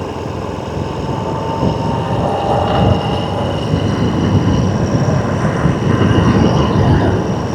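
Dirt bike on the move along a dirt road: a rough, steady low rumble of engine, tyres and wind on the microphone, getting somewhat louder about two seconds in.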